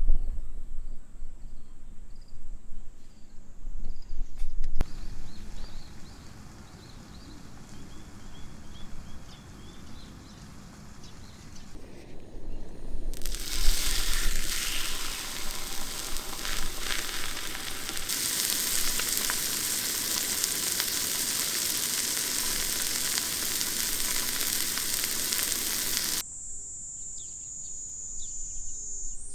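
Food sizzling and frying in a hot pan: a loud, even hiss that starts about halfway through, settles into a steady sizzle and cuts off sharply near the end. Before it, quiet outdoor sound with faint bird chirps.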